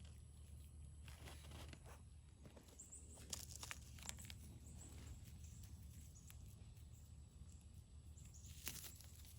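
Near silence: a low steady rumble with a few faint scuffs and clicks, about a second in, again around three to four seconds in, and once near the end.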